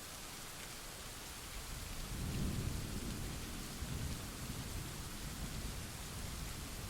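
Steady rain hiss with a roll of thunder: a low rumble builds about two seconds in, peaks briefly, then keeps rolling more softly under the rain.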